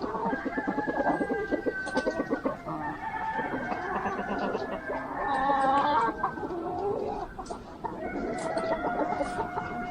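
A flock of chickens clucking, several birds calling over one another, with a longer drawn-out call near the end.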